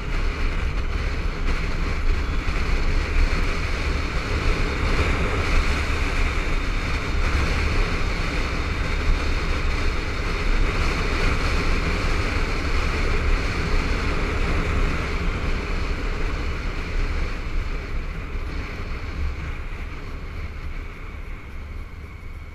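Wind rushing and buffeting over a helmet-mounted camera's microphone while riding a Honda ST1300 motorcycle, its V4 engine running underneath. The noise eases off over the last few seconds.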